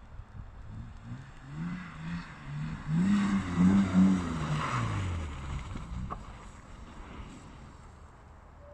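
BMW E90 330i's straight-six engine revving up and down several times as the car slides sideways through snow, with tyres spinning and hissing on the snow. It is loudest as it passes close by about three to four seconds in, then fades as the car pulls away.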